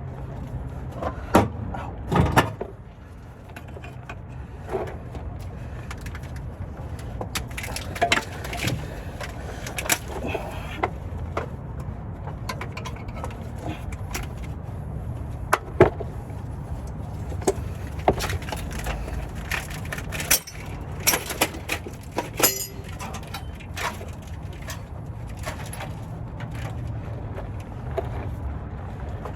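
Irregular metallic clicks and knocks of hand tools working on the underside of a vehicle to remove its transmission, over a steady low rumble.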